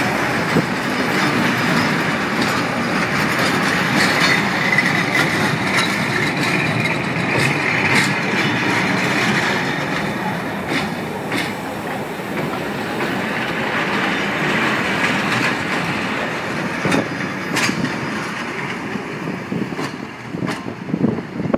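Freight train of empty gravel wagons rolling past: steady wheel-on-rail noise with sharp clicks as the wheels cross rail joints, easing off near the end as the train moves away.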